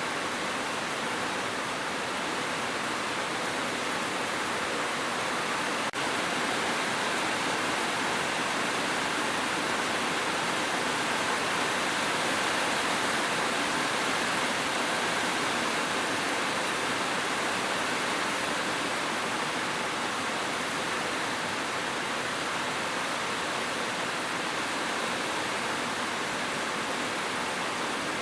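Steady, even rain with a constant hiss and no distinct drops or thunder; a brief click about six seconds in.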